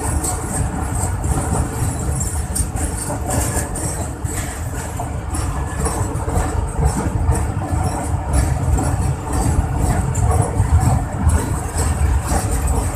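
Train running across a steel truss bridge, heard from beside an open door: a steady low rumble of wheels on rail and running gear, with scattered light clicks and rattles.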